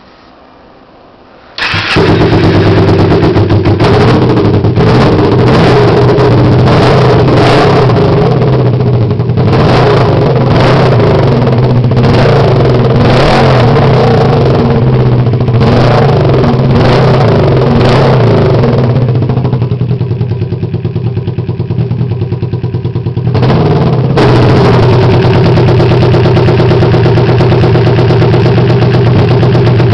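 2006 Kawasaki Ninja 250's parallel-twin engine starting up about two seconds in, then running loud with repeated revs. It settles to a quieter idle for a few seconds and picks up again near the end.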